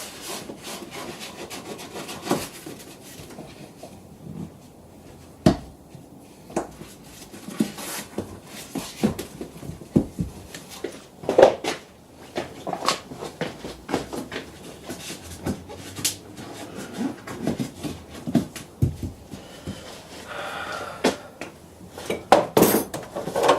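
Irregular knocks, clicks and rubbing as carpet and plastic interior trim panels are handled and pressed into place, with a stretch of rustling near the end.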